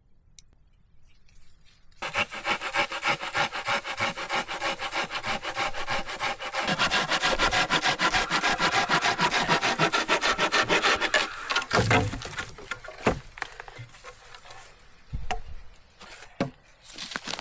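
Hand saw cutting through wood in rapid, even back-and-forth strokes for about nine seconds, then stopping, followed by a few knocks of wood being handled.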